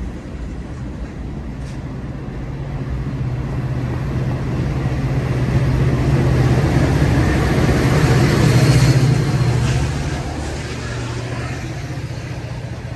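Diesel locomotives of a BNSF manifest freight train running past, the engine drone growing to its loudest about eight to nine seconds in, then easing to a steady rumble as the train rolls on.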